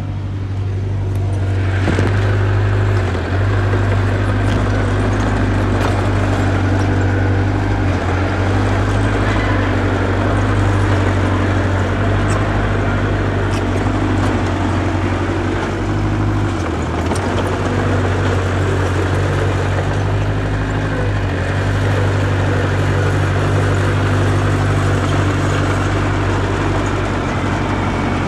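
Diesel engine of heavy earthmoving machinery running steadily under load, with a deep drone and a constant mechanical rumble.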